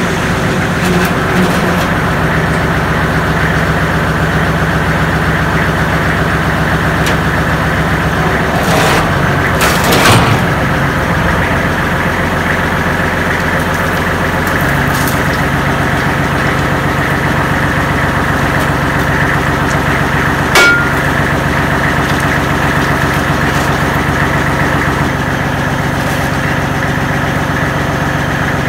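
Kubota L35 tractor's diesel engine running steadily; its note steps down a little about halfway through. A brief clatter comes about a third of the way in, and a sharp click about two-thirds in.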